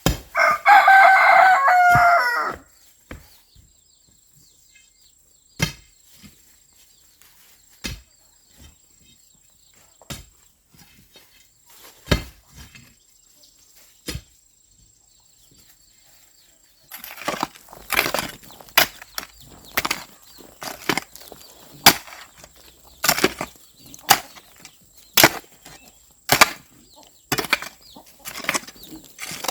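A rooster crows once, loudly, for about two seconds. A few scattered knocks follow, then from just past halfway a fast, irregular run of sharp strikes and scrapes, like a hand tool working ground or wood.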